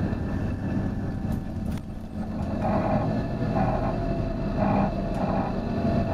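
Volvo B9TL bus's engine running with a steady low rumble. From about halfway in, a short mid-pitched sound repeats roughly once a second over it.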